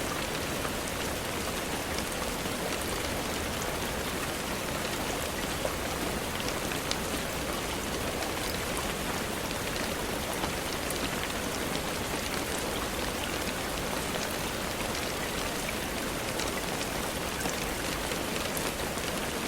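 Steady rain falling on a surface, an even patter with scattered individual drop ticks standing out.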